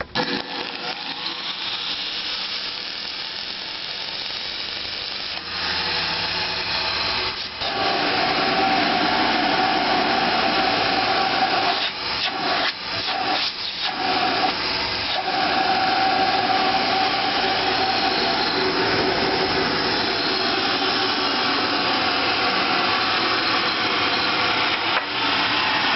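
1913 Spencer Turbine central vacuum started up: its vertical Century Electric repulsion-start induction motor and the multi-stage turbine it drives spin up and then run with a steady whine. The sound grows louder in steps over the first several seconds and dips briefly a few times about halfway through.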